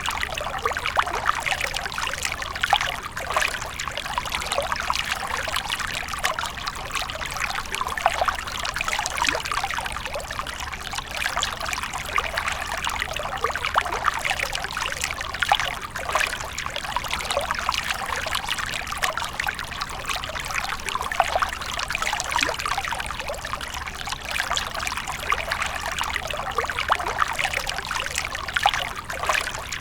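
Water fountain splashing and trickling steadily, a dense continuous patter of falling water with no pauses.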